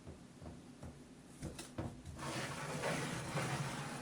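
Kitchen utensils and containers being handled while a dry ingredient is measured out: a few light clicks and taps, then a steady scraping, rustling noise from about halfway in.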